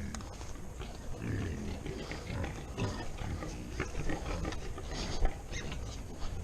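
Pigs grunting as they feed, with scattered short clicks and chomps among the grunts.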